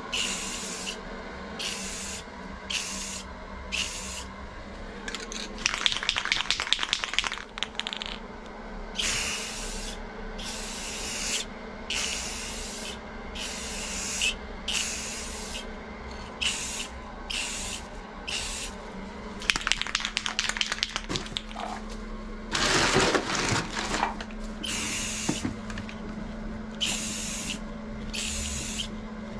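Aerosol spray can of clear coat hissing in short, even bursts, about one a second, as light passes are laid on. Three times the hissing gives way to a louder spell of rapid rattling, the can being shaken.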